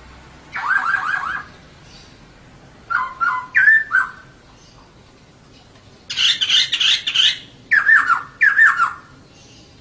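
Female laughingthrush (poksay) calling in short phrases of quickly repeated falling notes, four times, with a harsher chattering burst about six seconds in.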